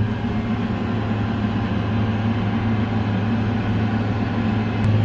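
Case IH Steiger 335 four-wheel-drive tractor engine running steadily under way, heard as an even low drone from inside the cab.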